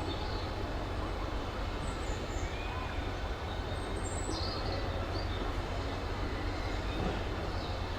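Steam train running with a steady rumble and hiss and no distinct chuffing beat. A few faint bird chirps sound above it.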